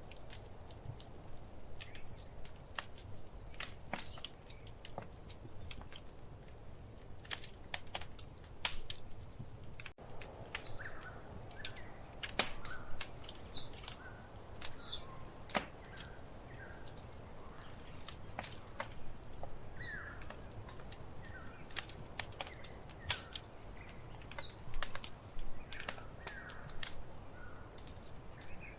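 Wood fire in a fireplace crackling, with irregular sharp pops and snaps over a low, steady rush of burning.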